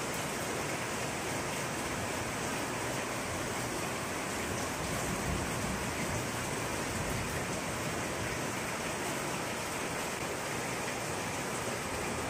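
Heavy rain pouring down steadily on wet patio tiles and plant leaves, an even, unbroken hiss.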